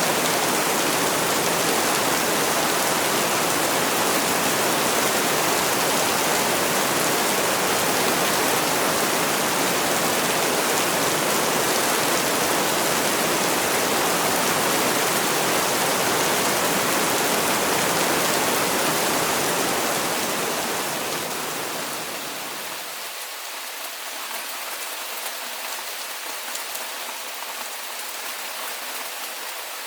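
Heavy rain falling as a steady, even hiss with a low rumble underneath. About two-thirds of the way through it fades down to a quieter, thinner rain with the low rumble gone.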